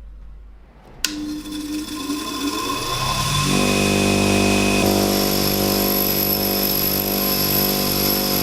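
Electric power tool switched on with a click about a second in, its motor spinning up in a rising whine over a couple of seconds, then running steadily at full speed.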